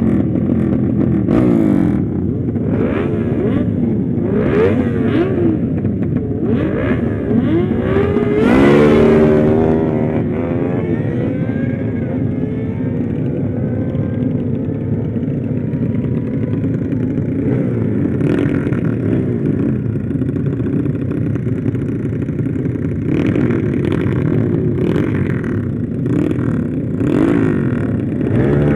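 Small motorcycle engines running at road speed, several at once, their notes rising and falling as they rev and change speed. About nine seconds in, one bike's note gets louder, sweeps up and drops back.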